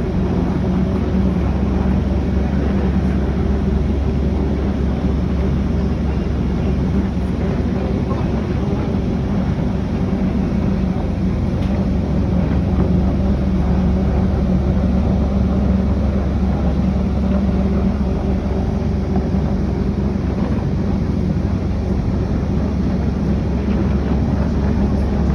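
Steady low drone of a ferry boat's engine, an even hum with no change in pitch.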